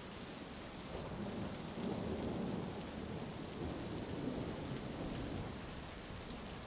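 Heavy rain falling steadily, with a low rolling rumble of distant thunder that swells about a second in, peaks shortly after, and fades away over the next few seconds.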